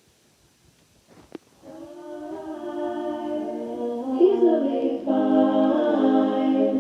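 A group of voices begins singing a slow a cappella chant about two seconds in, holding long notes and growing louder. This is the opening of a sung affirmation repeated over and over. A single faint click comes just before the singing starts.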